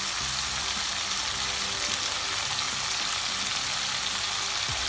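Prawns sizzling steadily in hot oil and spiced onion masala in a nonstick pan as the masala fries down.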